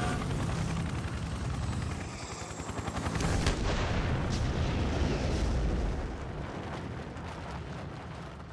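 Sound effect of a helicopter crashing into a hillside and exploding: a rough roar with a low rumble, sharp cracks about three and a half seconds in, then dying away over the last couple of seconds.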